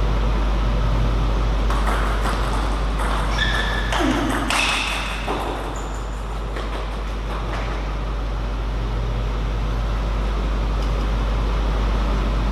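A steady low hum, with a brief cluster of clicks and short high squeaky tones about two to five seconds in.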